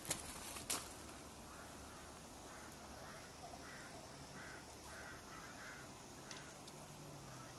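Two sharp clicks in the first second, then a faint bird giving a series of about ten short, harsh calls, repeated every half second or so and stopping about six seconds in.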